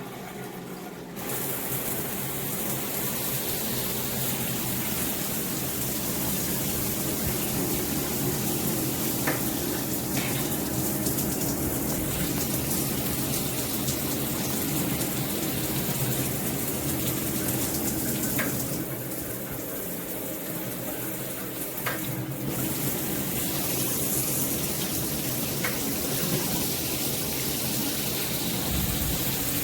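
Water spraying from a shower head: a steady rush that gets louder about a second in and eases off briefly about two-thirds of the way through.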